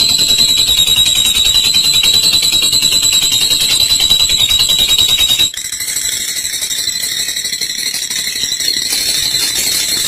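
Olive lovebird giving its long 'ngekek' chatter, a fast high-pitched rattling trill held on without a break. It cuts off abruptly about five and a half seconds in, and a similar rapid chatter carries on straight after.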